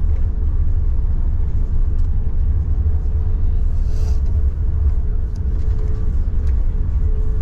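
Steady deep rumble of a British Airways Airbus A380 heard from inside the passenger cabin, with a faint steady hum and a few light clicks.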